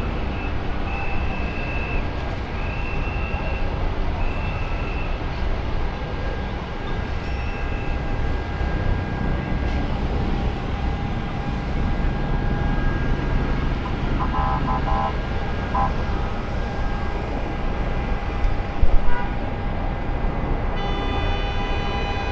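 Steady rumble of vehicle traffic, with a short high beep repeating about once a second early on, a brief loud knock later, and a horn sounding near the end.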